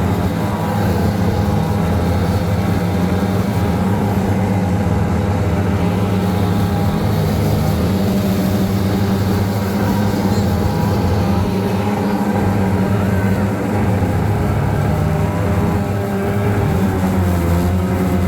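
Twin two-stroke outboard jet motors on a jon boat running steadily, their note shifting slightly near the end.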